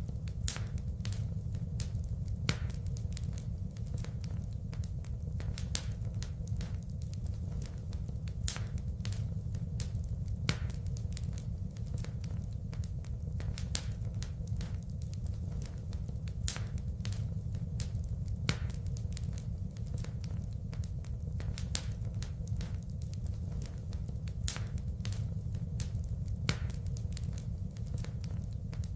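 Wood fire in a fireplace crackling, with irregular sharp pops over a steady low rumble. A louder pop stands out every couple of seconds among many smaller clicks.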